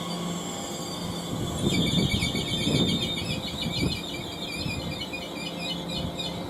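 High-pitched, wavering metallic squeal from a train, starting a little under two seconds in and carrying on, over a low rumble of the train.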